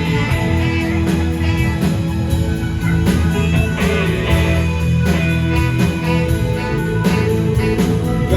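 Live rock band playing an instrumental break, with electric guitar over bass and drums keeping a steady beat.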